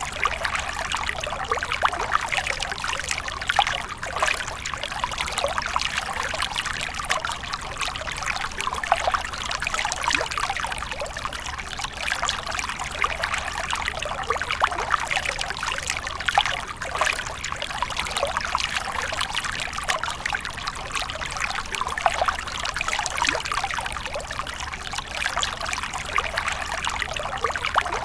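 Water splashing and trickling continuously, a busy stream of small irregular splashes with no pauses.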